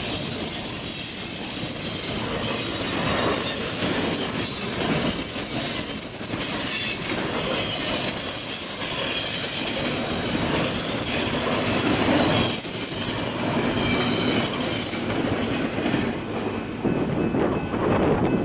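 Norfolk Southern freight cars rolling past on steel wheels, with high-pitched wheel squeal over a steady rumble and repeated clacks as the wheels cross rail joints.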